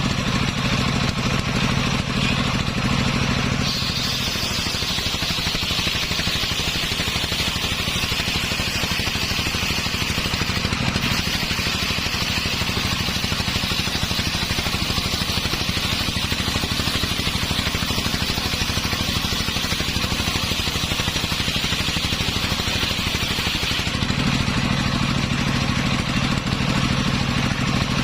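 Engine-driven homemade circular saw cutting through a hard coconut-palm log. About four seconds in, the blade bites and a high cutting whine rises over the engine, which sags under the load. The cut runs for about twenty seconds before the blade spins free and the engine note comes back up.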